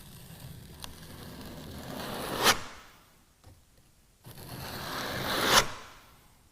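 Two long scraping pulls of a flexible spreader blade drawn across freshly applied polyester fairing compound on a fiberglass boat hull, each growing louder over about two seconds and ending sharply as the blade comes off the surface.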